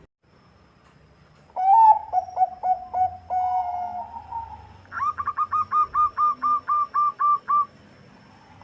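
Zebra dove (Bangkok perkutut) cooing: about a second and a half in, a phrase of short rising notes runs into a held coo; then, from about five seconds in, a quick even series of about a dozen short, higher staccato notes.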